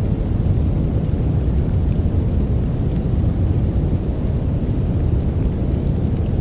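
Steady, deep noise played as a sleep aid: an even, low rumbling hiss with no breaks or separate events.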